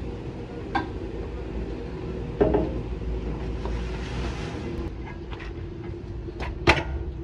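A few sharp metal clanks and knocks, the loudest about two and a half seconds in and near the end, over a steady low rumble, with a short hiss in the middle.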